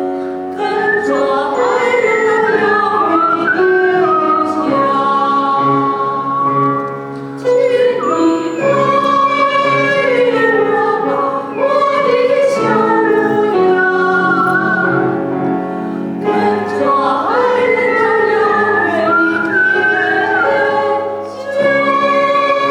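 A solo singer in a classical, operatic style, singing phrases with vibrato over a sustained instrumental accompaniment, with brief breaths between phrases.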